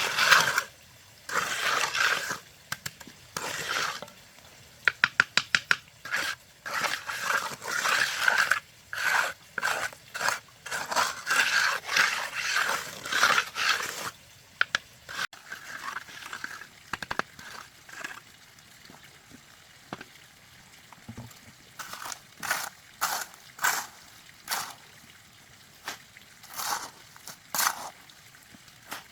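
Repeated scraping and crunching strokes, with a quick run of about eight sharp clicks about five seconds in; the strokes thin out to short, spaced scrapes in the second half.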